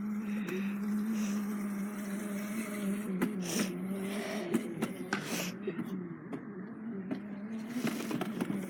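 A small motor running steadily with a droning hum that dips slightly in pitch now and then, with scattered light knocks and clicks over it.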